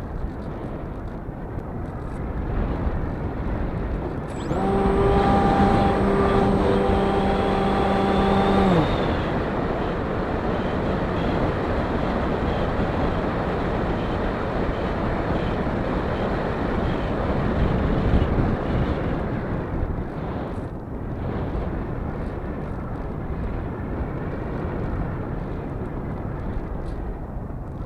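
Steady rushing wind noise on the microphone. About four seconds in, a steady pitched hum joins it for roughly four seconds, then drops in pitch and stops.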